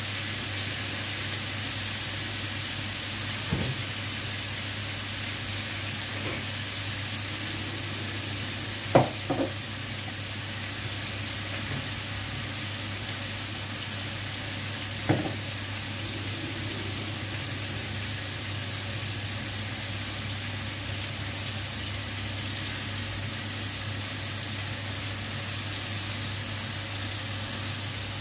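Chicken pieces sizzling steadily as they fry in oil in a pan, over a steady low hum. A few sharp knocks break in: one about three and a half seconds in, a loud double knock about nine seconds in, and another about fifteen seconds in.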